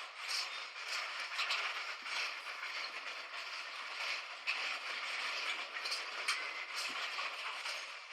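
Train on the move, heard as a steady rushing noise with frequent rattles and clicks.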